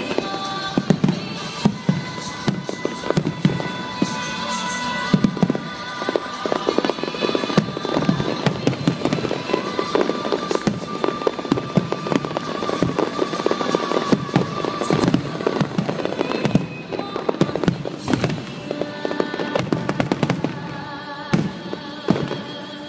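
An aerial fireworks display with many shells bursting in quick, irregular succession, over music playing with the show.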